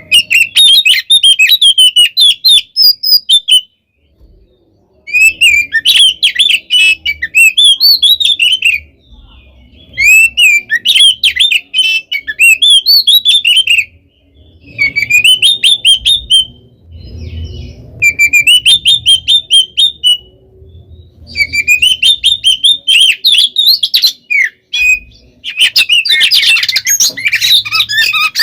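Oriental magpie-robin (kacer) singing loudly in its aggressive 'fighting' song: rapid runs of whistled and harsh chattering notes in bursts of a few seconds, with short pauses between them, and the densest burst near the end.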